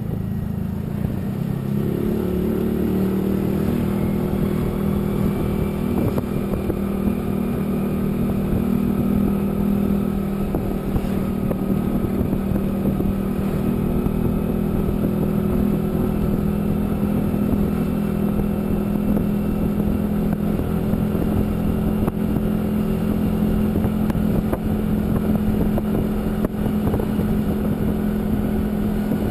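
A vehicle's engine running on the move, with steady road and wind rush. Its pitch climbs over the first two seconds as it speeds up, then holds steady at cruising speed.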